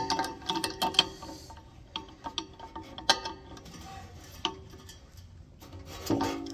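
Wrench clicking and metal parts clanking with a short ring while the blower motor is unbolted from a gas furnace's blower housing: irregular sharp clicks with a few louder knocks.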